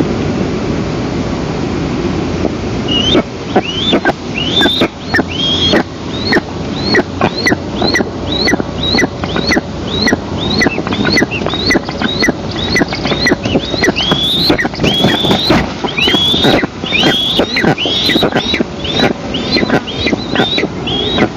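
Eastern imperial eagle nestlings food-begging: a long run of short, high chirps that rise and fall, about two a second, starting about three seconds in. Steady wind noise runs underneath.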